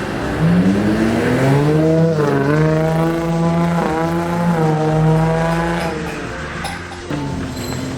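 Audi A7 engine revving through a loud aftermarket exhaust. The pitch climbs about half a second in, is held high with a couple of brief dips, then falls back about six seconds in.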